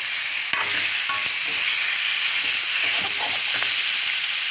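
Chicken pieces sizzling as they fry in spiced oil in a pan, a steady hiss, while being stirred, with a few short clicks of the stirring.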